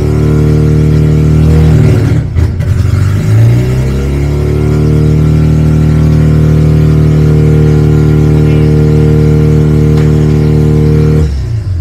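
Mazda RX-7's rotary engine running loud through a very short exhaust header. The revs sag and pick back up about two to three seconds in, then hold steady until the sound stops near the end.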